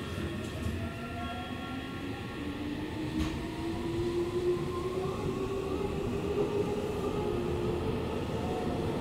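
Electric commuter train running, heard from on board: the traction motors whine in several tones that climb slowly in pitch as the train gathers speed, over the steady rumble of the wheels on the rails. One brief click about three seconds in.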